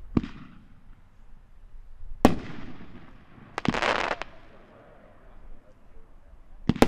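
Dominator Mammoth Crackle 500-gram firework cake firing: separate sharp bangs a couple of seconds apart, with a burst of fast crackling about three and a half seconds in.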